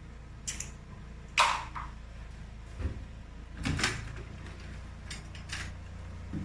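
A few short knocks and clatters of kitchen utensils being rummaged through and handled, the loudest about a second and a half in and again near four seconds, over a low steady hum.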